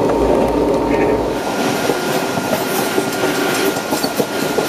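Indian passenger train running, with the steady noise of wheels and carriage heard from inside the coach. About a second and a half in, the deep rumble fades and a brighter hiss takes over.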